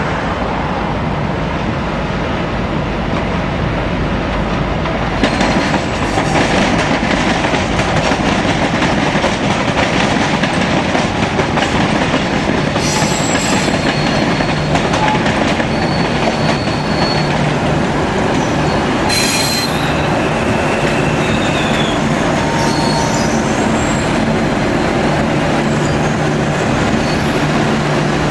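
V/Line VLocity diesel railcars rolling through the approach tracks, a steady rumble of wheels and engines that grows louder about five seconds in as the sets draw near. Through the middle, short high wheel squeals come several times as they take the curves and points.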